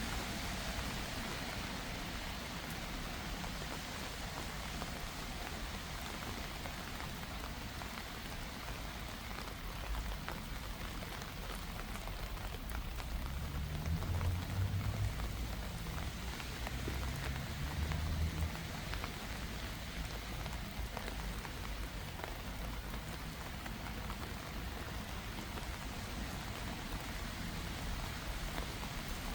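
Steady rain falling and pattering on surfaces, with a low rumble twice around the middle.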